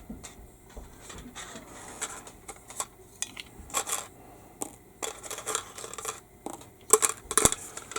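Small hard plastic parts and tools handled on a workbench: scattered light clicks, taps and scrapes, with a couple of sharper knocks near the end.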